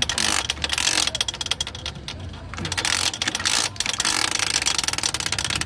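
Rapid metallic ratcheting clicks from work on a motorbike's clutch, coming in runs with short pauses over a low steady hum.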